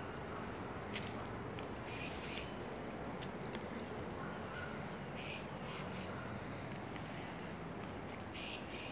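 Forest birds calling: scattered short, high chirps and a quick trill every second or two, over steady low background noise.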